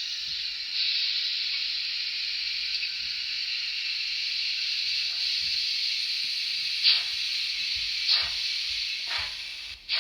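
Digital sound decoder of an N-gauge Fleischmann DR class 44 steam locomotive model playing a steady steam hiss through its small speaker. About seven seconds in, exhaust chuffs begin and come closer together as the engine sound starts up.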